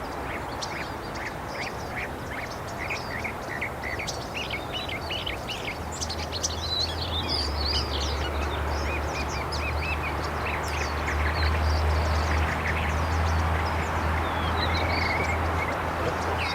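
Northern mockingbird singing a long run of varied phrases, short notes repeated several times before switching to the next. A steady low hum joins in about six seconds in.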